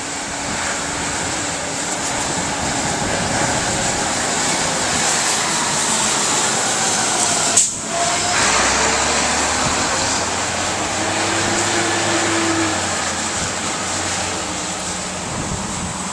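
Hurricane wind and rain making a steady rushing noise, with wind buffeting the microphone. A single short knock comes about halfway through.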